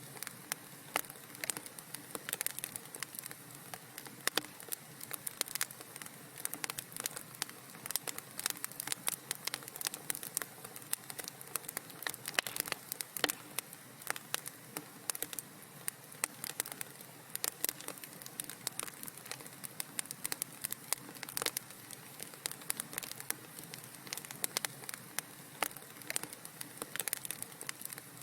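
Wood fire crackling in a fireplace: dense, irregular small pops and snaps over a soft steady hiss.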